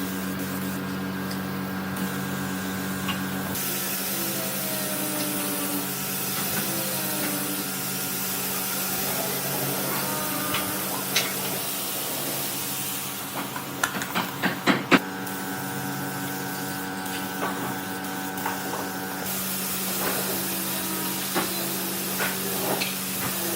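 Steady hissing over a steady motor hum, with a cluster of sharp clicks and knocks about halfway through.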